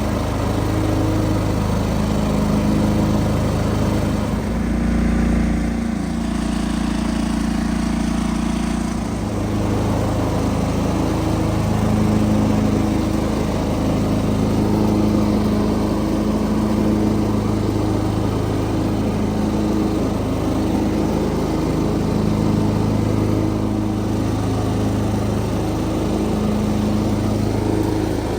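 John Deere 425 garden tractor's liquid-cooled 20 hp engine running steadily; its note shifts for a few seconds about five seconds in, then settles back to a steady run.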